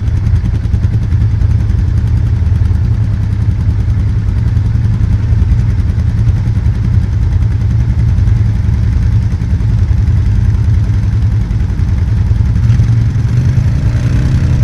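ATV engine running steadily close to the microphone, a low even drone.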